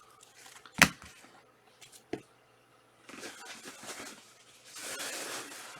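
Trading cards and pack wrappers being handled: a sharp click about a second in and a lighter knock a second later, then two spells of soft rustling and sliding as cards are shuffled through.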